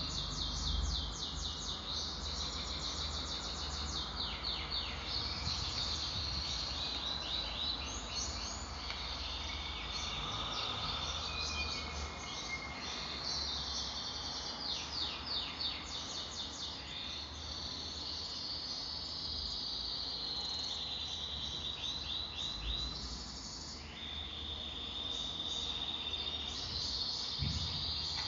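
Small birds chirping and trilling continuously, high-pitched, in quick repeated runs of notes, with a faint low rumble underneath.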